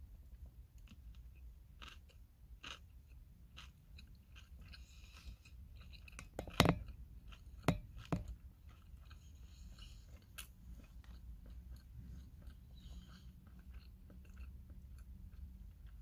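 Close-up chewing and biting of gimbap, with small wet clicks of the mouth. A few louder knocks come about halfway through, the first the loudest.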